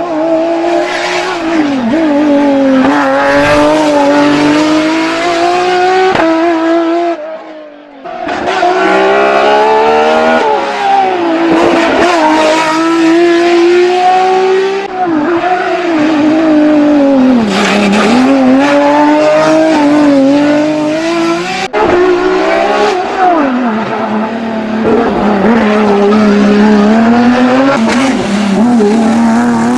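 Ford Escort Mk2 hillclimb race car's engine at high revs, its pitch climbing and dropping many times as it accelerates and shifts, with a brief drop in sound about seven seconds in.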